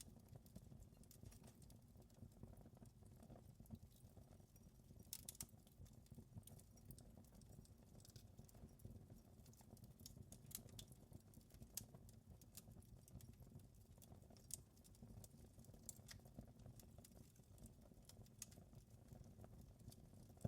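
Faint wood fire crackling: irregular sharp pops and snaps over a low, steady rumble of the flames.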